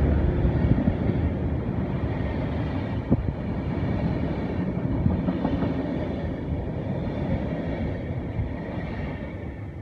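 Passenger coaches of a locomotive-hauled train rolling past at speed: a steady rumble and rush of wheels on the rails, with one sharp click about three seconds in. It fades toward the end as the last coach goes by.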